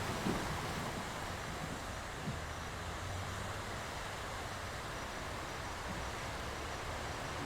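Sea surf washing in continuously, a steady rushing noise with a low rumble underneath and two faint knocks in the first few seconds.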